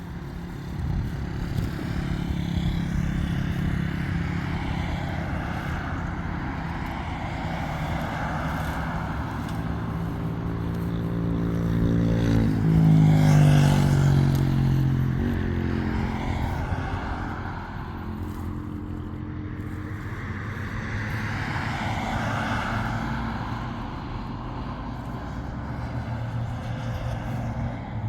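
A motor vehicle's engine running steadily; about halfway through it gets louder and its pitch slides down, then it settles back.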